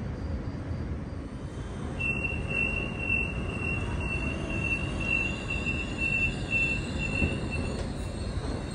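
Sydney Trains double-deck electric train at the platform: a steady low rumble, with a single high tone that starts about two seconds in, pulses about twice a second and stops shortly before the end.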